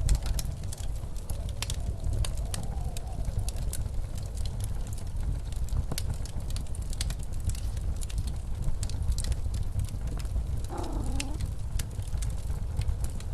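Wood fire crackling in a fireplace, with many sharp pops and snaps, over the steady low rush of blizzard wind that moans faintly in the first few seconds.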